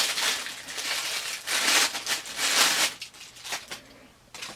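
Plastic packaging crinkling and crackling in irregular bursts as an action figure is handled and taken out of its tray, dying away near the end.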